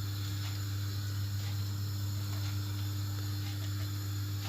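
Steady low electrical hum with a faint background hiss, and a few soft light taps now and then.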